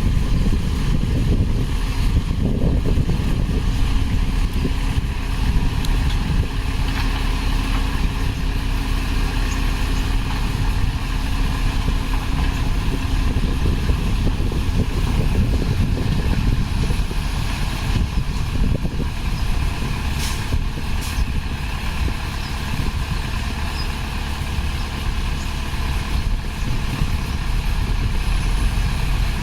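Heavy diesel construction machinery running steadily with a deep, continuous engine rumble, a faint steady hum through the first half.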